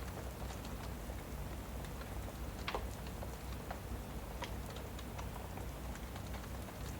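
Rain and fireplace ambience: a steady hiss of rain under the irregular crackles and pops of a wood fire, one louder pop a little under three seconds in.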